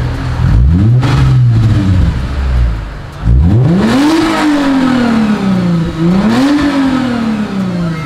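Car engine revved three times: a short blip, then two higher revs, each sinking back slowly toward idle.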